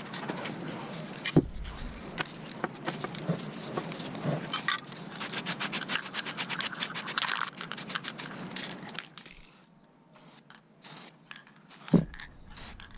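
Rapid, repeated hand scraping and rubbing strokes, as in brushing or sanding rust from the scale's parts, with a knock about a second and a half in and another near the end; the strokes die down for a few seconds before the last knock.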